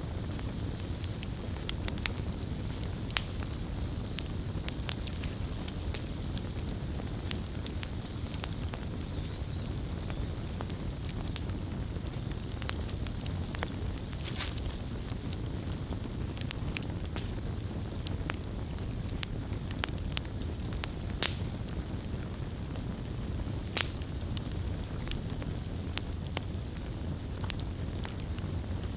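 Wood campfire crackling, with scattered sharp pops and snaps over a steady low rumble. A few louder snaps stand out about two-thirds of the way through.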